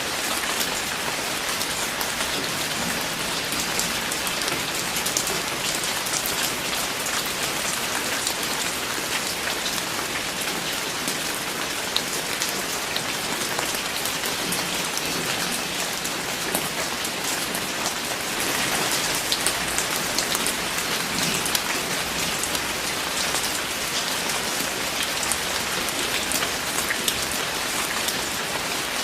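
Steady rain falling on a surface, a dense hiss with many individual drops pattering through it.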